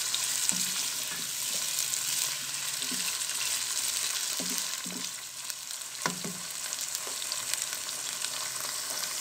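Chicken pieces with sliced onion and tomato sizzling in hot oil in a pan, a steady frying hiss with a few soft knocks.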